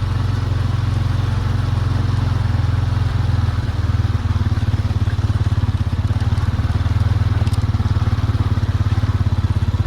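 Farm vehicle's engine running steadily at low speed, a deep hum with a regular pulsing beat that grows stronger about halfway through.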